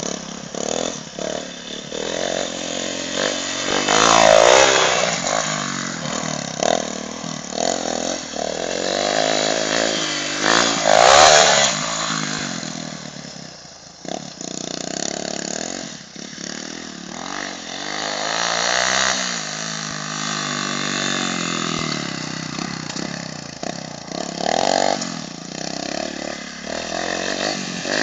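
Motocross bike engine revving up and down as the bike rides around, its pitch rising and falling, loudest when it passes close about 4 and 11 seconds in.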